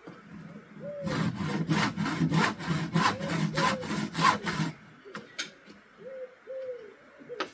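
Saw cutting through an old wooden window frame in quick back-and-forth strokes, about four a second, stopping after nearly four seconds. A few light knocks follow.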